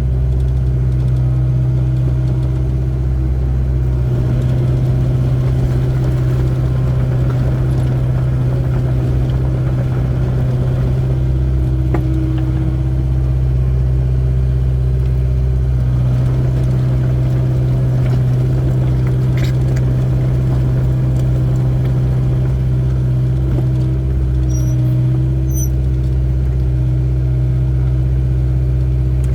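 Excavator's diesel engine running steadily with a constant low drone while digging a foundation trench. A few faint knocks are heard over it.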